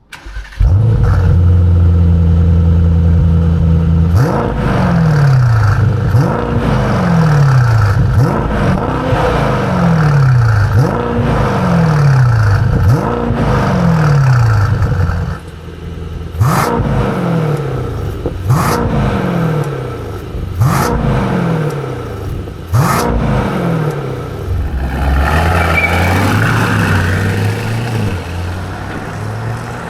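Mercedes-AMG S63's twin-turbo V8 through a tuned rear muffler with valves linked to the factory variable exhaust: it starts up, holds a fast idle, then is blipped about ten times, roughly once every two seconds, each rev rising quickly and falling away slowly. The later blips are quieter, and it settles to an uneven idle near the end.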